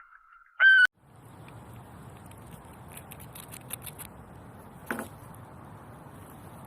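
A short, loud animal call ends just under a second in. A steady rustling follows, with scattered small clicks and one sharper click about five seconds in.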